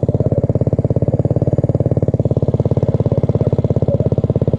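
Mini bike's small engine running steadily, a fast, even putter that holds one speed throughout.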